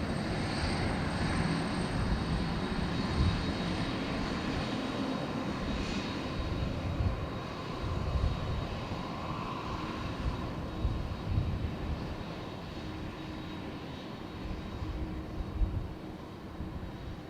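Jet airliner taking off, the engine roar slowly fading as it climbs away.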